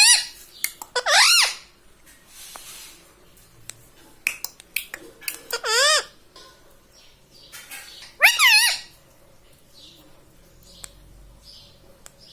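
Ring-necked parakeet giving three loud, wavering calls about half a second each, spaced a few seconds apart, with faint clicks between them.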